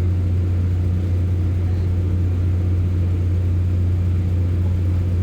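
Class 144 Pacer diesel railbus's underfloor engine running with a deep, steady drone that holds unchanged throughout.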